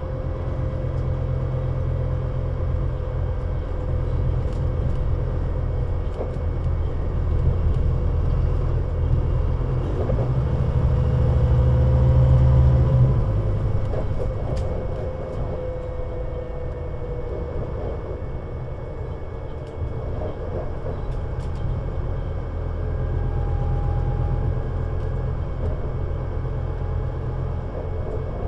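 Scania Citywide CN320UA bus engine running under way, a low steady rumble that builds to its loudest about ten to thirteen seconds in and then drops suddenly, with a faint whine drifting slowly up and down in pitch.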